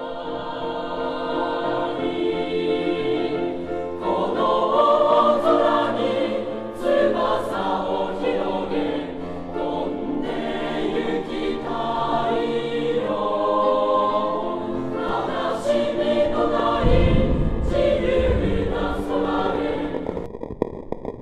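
Choral music: many voices singing sustained, changing chords, stopping abruptly near the end.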